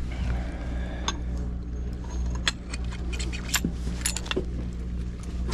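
Steady low hum of an idling boat engine, with irregular metallic clinking and rattling over it, the loudest clinks a little past the middle.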